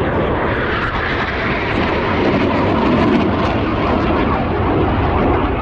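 Military aircraft passing over, a loud steady engine noise that swells a little midway.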